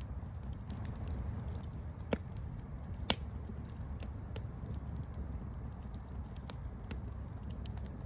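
Campfire burning with a low steady rumble of flame and scattered sharp crackles and pops of burning wood, the loudest pops about two and three seconds in.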